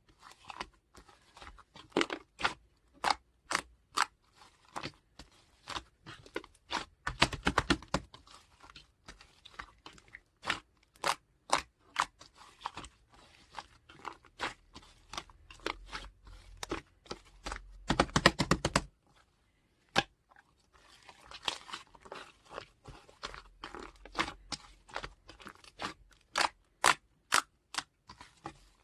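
Clay-like slime being squeezed and poked by hand, giving many sharp crunchy clicks and crackles, several a second, with a couple of longer crackling squishes.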